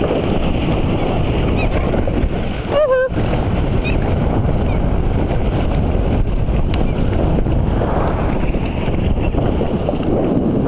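Wind buffeting the microphone in a steady loud rumble, with a short wavering gull call about three seconds in.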